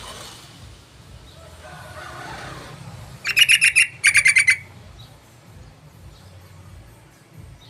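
Yellow-vented bulbul (trucukan) calling: two quick, loud phrases of rapid chattering notes, back to back about three seconds in.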